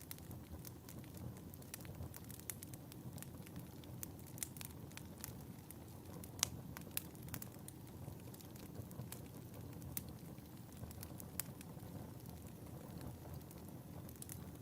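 Fire burning in a fireplace: a low steady rush of flame with frequent sharp crackles and pops, a louder pop about six seconds in.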